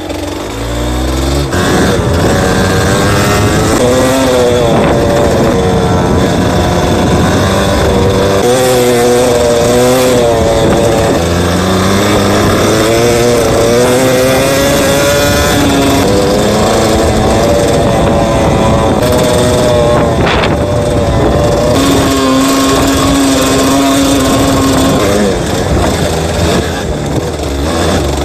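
Yamaha DT200WR's single-cylinder two-stroke engine under way. The revs rise and fall again and again with throttle and gear changes, and it holds a steady pitch for a few seconds near the end.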